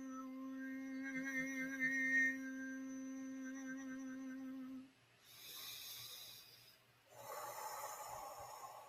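A woman's voice toning one long, steady hummed note, ending about five seconds in, followed by two breaths.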